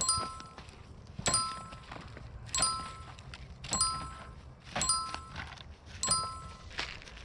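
Repeated sharp strikes, about one every second, each leaving a ringing metallic tone that fades before the next blow.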